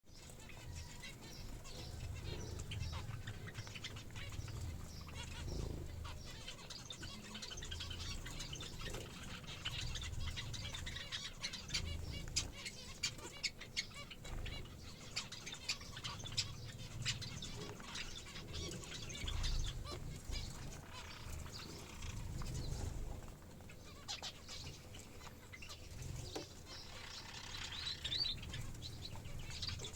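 Small pet birds chirping in a dense run of short, high calls, with wing flapping and an irregular low rumble underneath.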